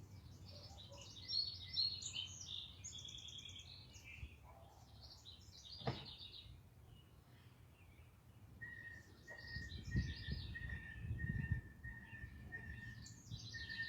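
Backyard songbirds chirping and trilling, with one bird repeating a single clear note about twice a second through the second half. A low rumble rises underneath in the second half.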